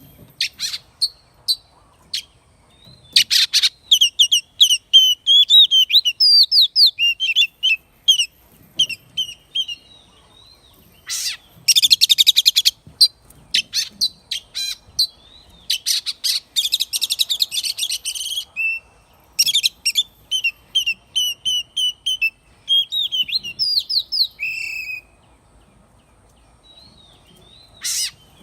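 Oriental magpie-robin singing a long run of varied whistled phrases, broken by stretches of harsh, rapid rattling notes, with a pause of a few seconds near the end.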